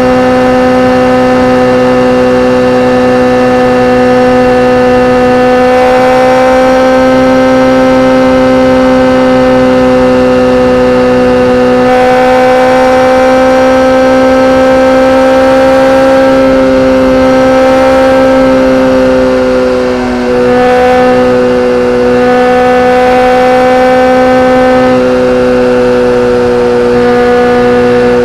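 BMW K1300R inline-four with an Akrapovic exhaust, held at a steady engine speed with an even, siren-like tone whose pitch barely changes, briefly easing off about twenty seconds in.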